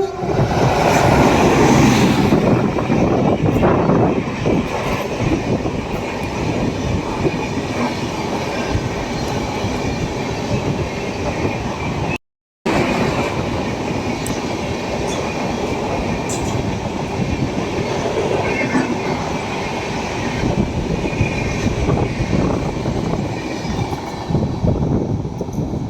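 An Indian Railways express passenger train running on the track: a steady rolling rumble and clatter of its wheels and coaches, loudest in the first few seconds. About halfway through, the sound drops out completely for half a second.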